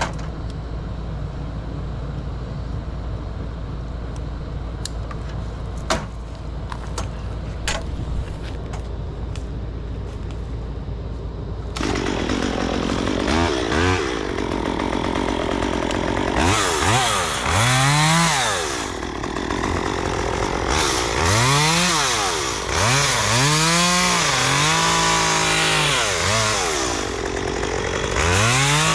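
Chainsaw idling for about twelve seconds, then revved up and let back down several times while cutting wood.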